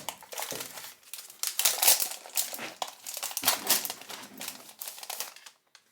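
Crinkly plastic food packaging of s'mores makings, handled and opened in quick irregular rustling bursts, stopping shortly before the end.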